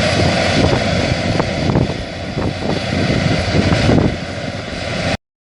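New Holland CR8080 combine harvester running while harvesting barley: a steady engine and machinery drone. It cuts off abruptly near the end.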